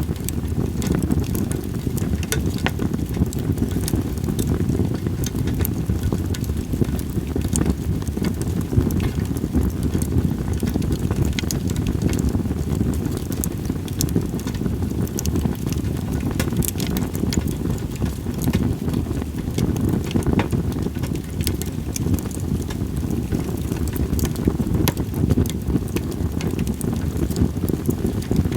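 Split sawtooth oak (kunugi) logs burning in a campfire, with frequent sharp crackles and pops over a steady low rumble of wind.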